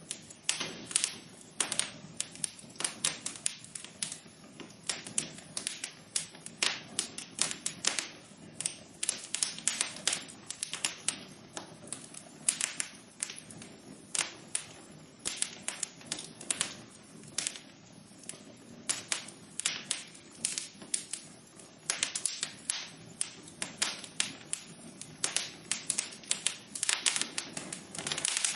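Wood fire crackling in a fireplace: irregular sharp pops and snaps, several a second in clusters, over a soft steady hiss of the burning.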